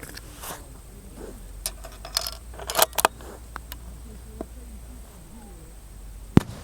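Scattered metallic clicks and light rattles in small clusters, then one sharp crack near the end, the loudest sound.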